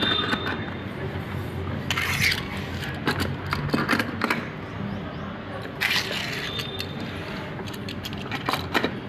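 Small toy cars being handled: sharp clicks and clinks of the cars knocking together and against the hard toy truck, with a scrape or rattle about two seconds in and again about six seconds in.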